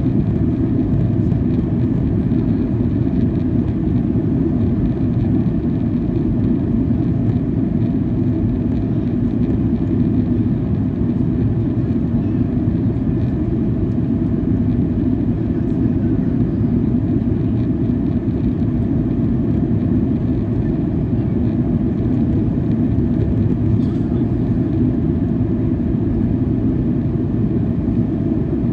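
Steady low roar inside the passenger cabin of a Boeing 737-800 in flight: its CFM56-7B engines and the airflow past the fuselage, heard from a window seat.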